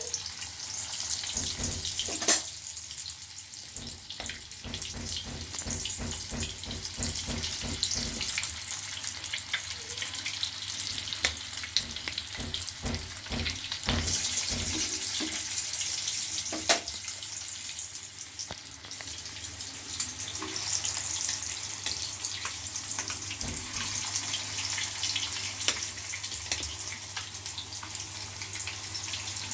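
Chicken koftas shallow-frying in hot oil in a pan: a steady hissing sizzle, with a few sharp clicks now and then.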